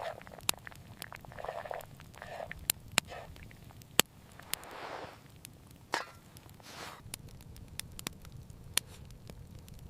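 Irregular sharp cracks and crackles, the loudest about four seconds in, with a few short rustling or crunching noises over a steady low rumble.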